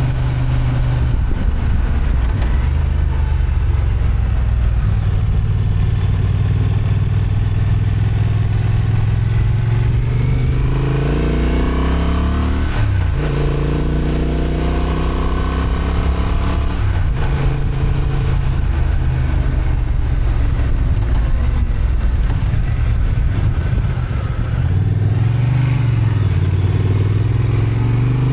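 Honda XL750 Transalp's parallel-twin engine, restricted to 35 kW, running under load on a climb. The revs rise twice and drop away, about halfway through and again near the end, as it pulls through the gears.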